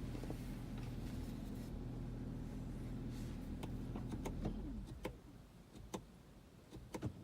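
Steady motor hum inside a car that winds down with a falling tone about four and a half seconds in, followed by a few sharp clicks and knocks.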